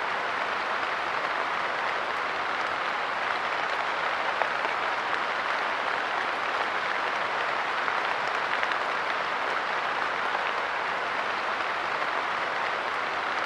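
Light rain falling steadily, a dense patter of drops on a wooden park bench and the ground around it.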